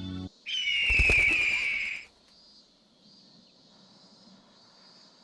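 A loud, shrill cry that slides down in pitch for about a second and a half, with a low thud as it starts. Then only faint outdoor background with soft high chirping.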